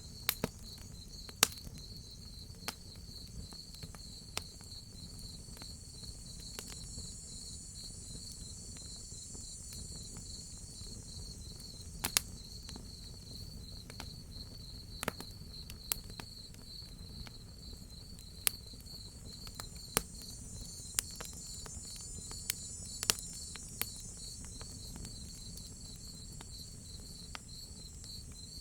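Crickets chirping in a steady, fast pulsing trill, over a higher faint insect hiss and a low rumble. Irregular sharp pops and snaps of a crackling wood fire cut through it, the loudest things heard, about twenty of them scattered throughout.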